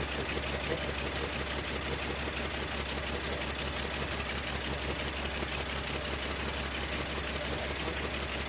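1975 Plymouth Duster's engine idling steadily, just started and warming up before the carburettor is adjusted.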